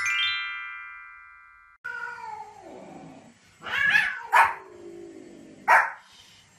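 A quick rising chime of bright ringing tones that fade away, then, after a cut about two seconds in, a drawn-out falling animal cry followed by a few short, sharp yaps from a small white spitz-type dog.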